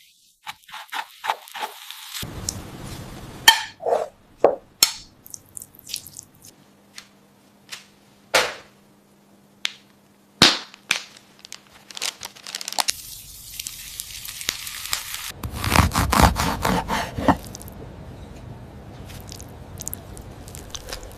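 Food-preparation sounds: a series of sharp knocks, clicks and scrapes, then a steady hiss a little past the middle and a louder stretch of scraping and crackling after it.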